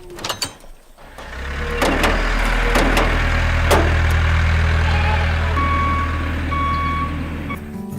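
A heavy vehicle's engine starts about a second in and runs with a low, steady drone, with a few sharp clicks. Two short beeps of a reversing alarm sound in the second half.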